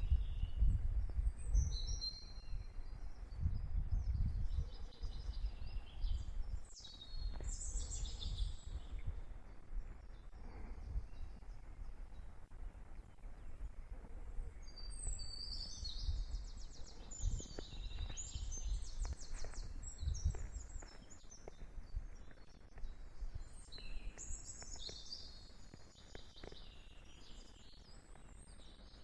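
Songbirds singing in repeated bursts of chirps and fast trills, over a low uneven rumble.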